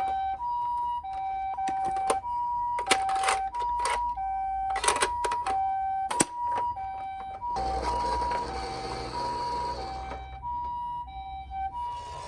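Toy minicar ambulance's electronic two-tone hi-lo siren, alternating between a higher and a lower note about twice a second. Sharp plastic clicks come a few times in the first half. A rushing noise sounds under the siren for a couple of seconds in the second half.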